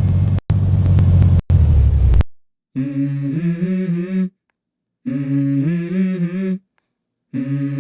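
About two seconds of steady, low bus running noise, twice cut out briefly, stops abruptly. Then a wordless hummed vocal melody begins, in phrases of about a second and a half separated by short silences: the intro of a pop song.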